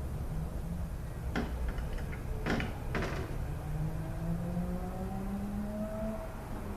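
A few sharp clicks of small parts being handled on a transmission valve body, three of them within about two seconds, over a steady low hum. A faint tone rises slowly in pitch in the second half.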